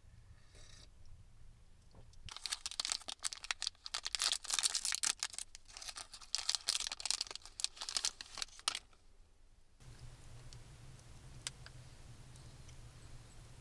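Close rustling and crinkling, like material being crumpled or handled, with many small crackles, lasting about six seconds before it stops.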